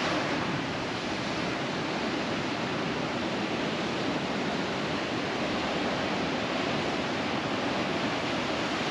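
Steady wash of ocean surf breaking along a point, an unbroken roar of noise with no distinct single wave crashes.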